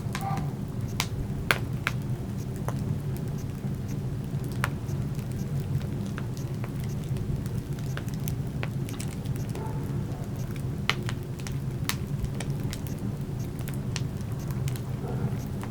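Wood fire burning in a fireplace: a steady low rumble with sharp crackles and pops scattered irregularly through it. The loudest pops come about a second and a half in and near eleven seconds.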